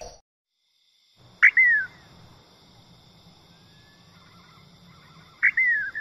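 A bird calling twice, about four seconds apart: each call is a sharp note dropping into a short downward-slurring whistle. A faint, steady high background drone runs beneath.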